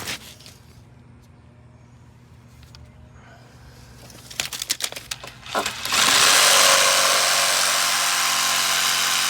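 A few knocks and clatters, then about six seconds in a power tool starts and runs steadily at full speed.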